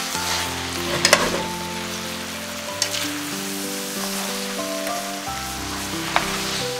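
Spaghetti stir-fry sizzling in a hot pan as it is tossed with chopsticks, with a few sharp clicks of the chopsticks against the pan. Soft background music plays throughout.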